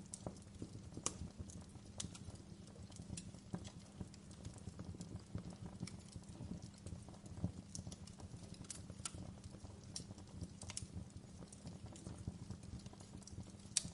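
Wood fire crackling in a fireplace: irregular sharp pops and snaps over a low, steady rumble, with louder pops about a second in, around nine seconds in, and near the end.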